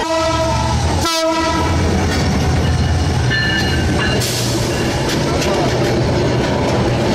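A train passing with a steady low rumble of wagons on the track. Its horn sounds in the first second.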